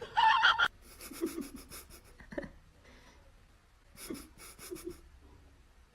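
A brief high-pitched cry at the start, then two bouts of quick, rhythmic panting breaths.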